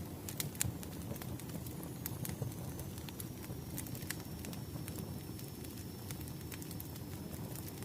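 Wood fire crackling: irregular sharp pops and snaps over a steady low rumble of the burning logs, with a faint thin high tone through the middle.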